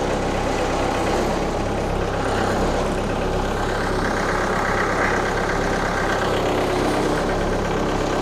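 Mahindra 1533 compact tractor's diesel engine running steadily, with a higher whine that swells in the middle and fades.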